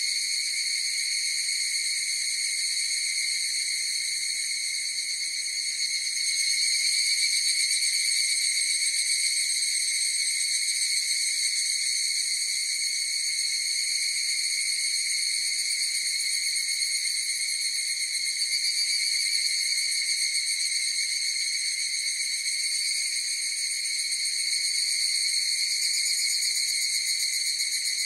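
Chorus of higurashi (evening cicadas, Tanna japonensis) calling, blending into an unbroken high ringing drone that swells a little about six seconds in.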